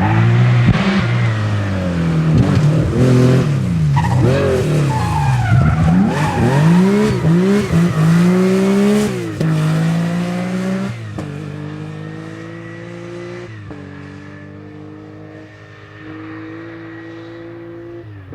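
Porsche flat-six rally car engine revving hard, its pitch swinging rapidly up and down through throttle blips, lifts and gear changes. After about ten seconds it settles into a steadier note that fades as the car moves away.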